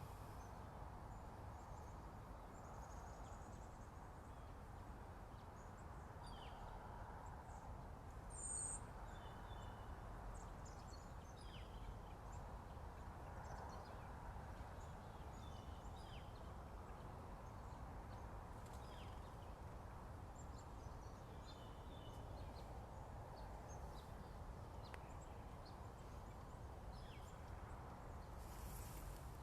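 Birds singing at a distance: scattered short chirps and calls over a steady low background noise, with one brief, louder high call about eight and a half seconds in.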